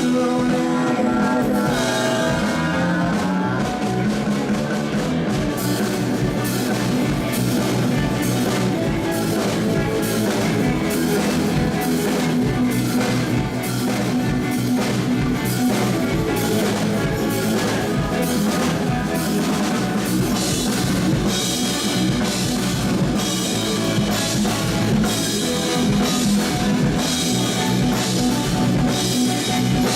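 Rock band playing live: distorted electric guitars, bass and drum kit in a loud instrumental passage with a steady beat and crashing cymbals, with no singing.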